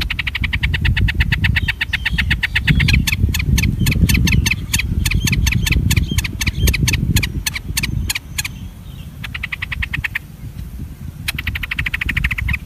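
Birds chirping in rapid high-pitched trains of quick notes. The trains run in bursts: one long run at the start, a stretch of sharper spaced notes, then two shorter runs near the end. A low rumble of wind noise runs underneath.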